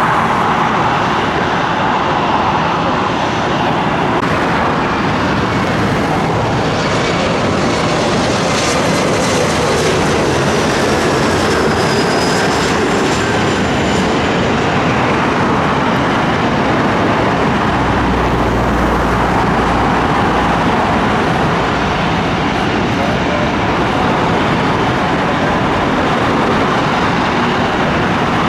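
Jet aircraft engines running: a steady, loud rush of engine noise with faint whining tones that slowly glide in pitch.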